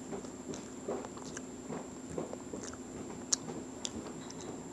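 A person chewing a mouthful of pancake, soft and quiet, with a couple of small sharp clicks past the middle, over a faint steady hum.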